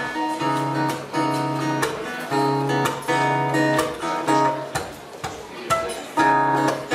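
Guitar strumming chords in a live band's instrumental song intro, each chord struck afresh every half second to a second, with no singing yet.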